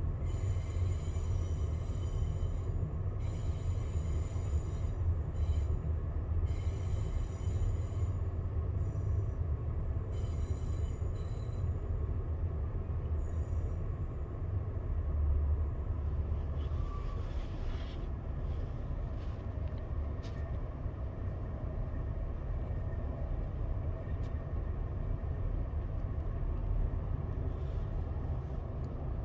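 Amtrak passenger train running over the rails, heard from on board as a steady low rumble. A faint high whine comes and goes during the first dozen seconds, and there are a few light clicks later on.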